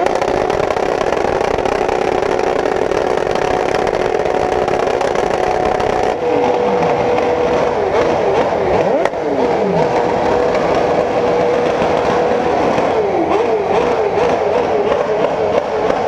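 Several motorcycle engines revving hard together: revs held high, then dropping and climbing again, with a rapid up-and-down stutter near the end typical of an engine bouncing off its rev limiter.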